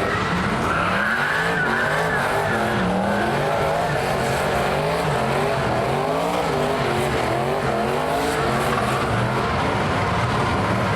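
Car engine held at high revs during a burnout, its pitch rising and falling over and over as the throttle is worked, over the hiss of spinning tyres.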